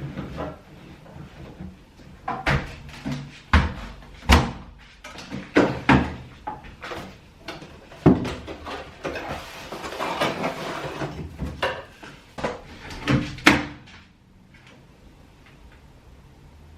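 Kitchen cupboard doors opening and shutting amid a run of knocks and clatters as things are handled, with a couple of seconds of hissing noise in the middle.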